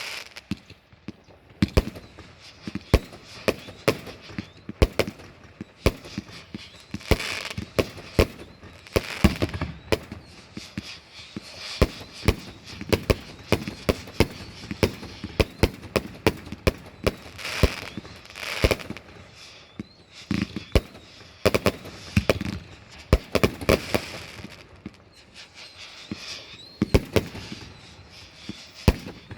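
Fireworks going off in quick succession: many sharp bangs mixed with crackling, and a few faint whistles in the second half.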